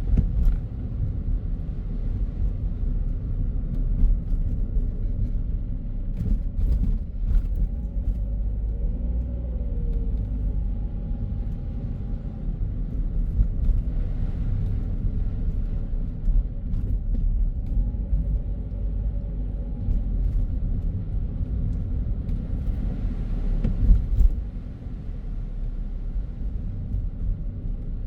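A car driving on a city road: a steady low road-and-engine rumble, with a few brief knocks and a louder bump about 24 seconds in, after which it gets somewhat quieter.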